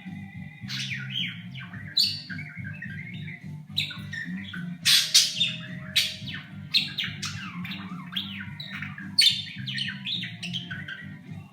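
Budgerigar chattering in a quick run of sliding, rising and falling whistles, chirps and sharp squawks, an R2-D2-like beeping impression, with the loudest squawks about five and nine seconds in. A low steady hum runs underneath.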